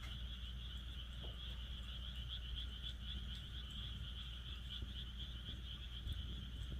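A chorus of frogs calling steadily in a rapid, pulsing trill, with a few faint crackles from a wood fire.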